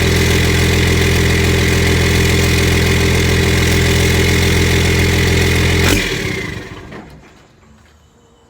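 Dodge Ram turbo-diesel pickup idling steadily through a new 4-inch MBRP stainless exhaust, with a turbo whistle over the exhaust note. About six seconds in, the engine is shut off and the whistle winds down as it falls quiet.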